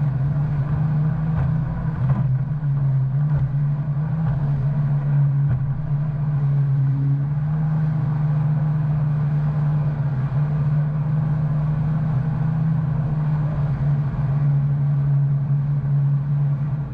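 Supercharged four-cylinder engine of a 2019 Yamaha FX SVHO WaveRunner running at a steady throttle, its pitch holding even throughout.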